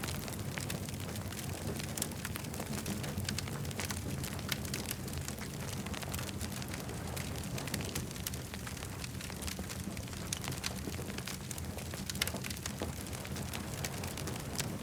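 Campfire crackling: many small, irregular pops and snaps from the burning wood over a steady low rumble.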